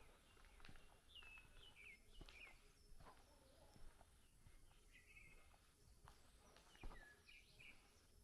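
Faint bird chirps: short calls that sweep downward, repeating in little groups, over a low hiss. A few sharp clicks come in between, the loudest about seven seconds in.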